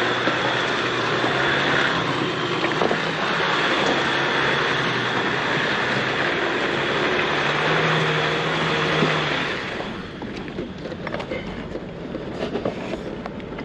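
Off-road vehicle driving a rough dirt mountain road, heard from inside: loud, steady road and engine noise with a low hum. About ten seconds in it drops off, leaving quieter running noise with light rattles and clicks.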